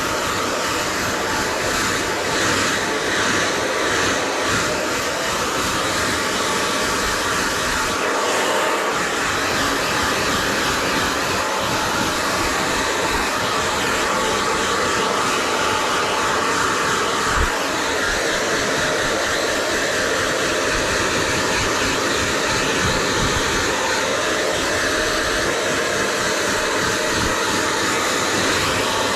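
Hair dryer blowing continuously: a steady rushing airflow with a faint motor hum. One brief tap is heard partway through.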